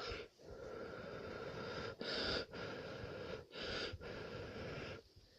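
A person blowing in long puffs across a gold pan to blow the dry black sand off the concentrate and leave the gold behind, about five breaths with short pauses between them.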